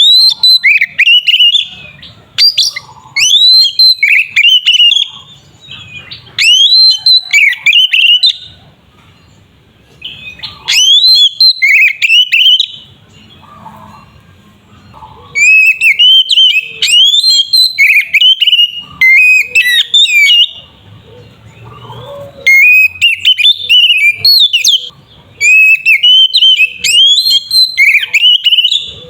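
Oriental magpie-robin (kacer) singing loudly in repeated bouts of a few seconds each: fast, varied whistled phrases with sliding and chattering notes. This is the vigorous 'gacor' song used to goad other magpie-robins into singing.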